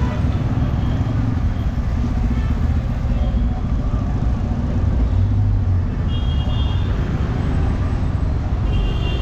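Street traffic noise: a steady low rumble of vehicle engines, with a short high tone about six seconds in and again near the end.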